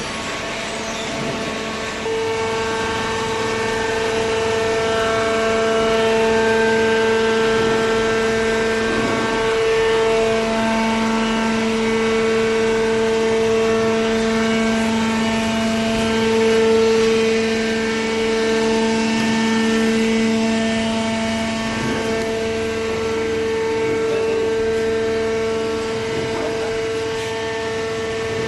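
Hydraulic cardboard baler's pump motor running with a steady whine, which gets louder about two seconds in and shifts a little lower tone around ten seconds in.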